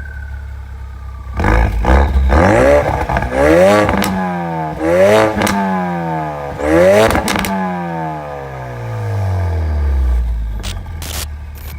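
Ford Focus RS 2.3-litre turbocharged four-cylinder engine through an AWE SwitchPath exhaust, idling low, then revved hard about three times, its pitch climbing and falling each time, before a long falling run-down. Sharp exhaust pops and cracks come at the peaks and in a cluster near the end.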